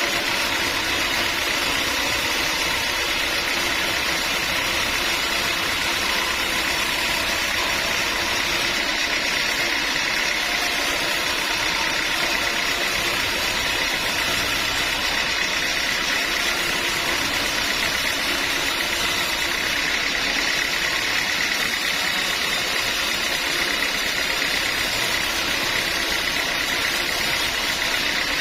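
Sawmill machinery running steadily, a constant mechanical hum with a high whine and no change in pitch or level.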